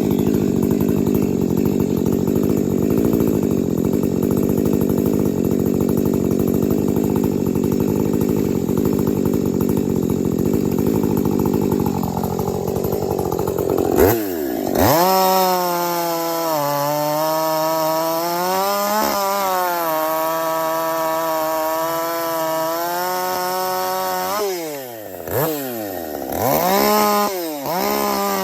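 A 50 cc two-stroke chainsaw cutting through maple under load for about fourteen seconds, then running at high revs out of the wood with a clear high pitch, dropping and picking back up twice near the end as the throttle is let off and opened again.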